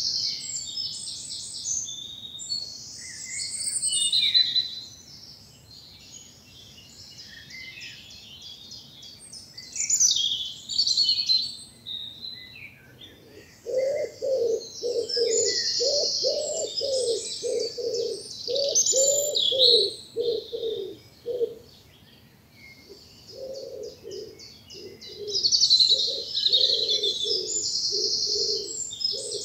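Dawn chorus of woodland songbirds, several high-pitched songs overlapping. About halfway through, a lower call joins in, repeated about twice a second in two long runs.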